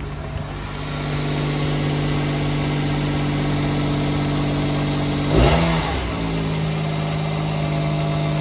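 Suzuki Wagon R's 660 cc three-cylinder engine idling steadily, with a brief louder swell about five and a half seconds in where the pitch dips and comes back up.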